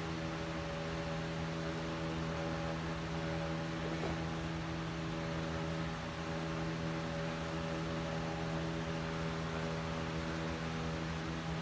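A 52-inch Hunter 1886 Limited Edition ceiling fan running steadily: an even motor hum under the rush of air from its blades.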